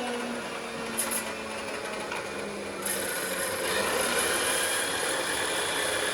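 Workshop metalworking noise: a tool rubbing and rasping steadily against metal, turning brighter and a little louder about three seconds in.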